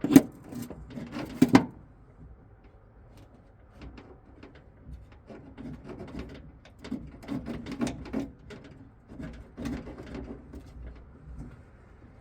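Handling noises: a few sharp knocks and clatter in the first second and a half, then intermittent rubbing, scraping and light knocks.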